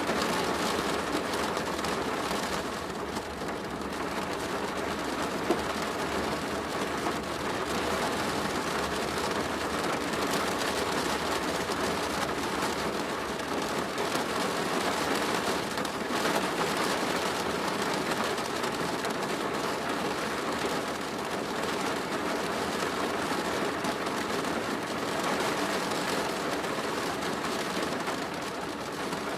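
Rain falling steadily on a plastic roof, with one sharper tap about five seconds in.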